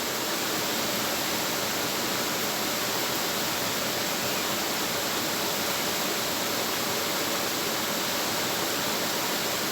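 Steady rush of falling water from a nearby waterfall, an even hiss with no change.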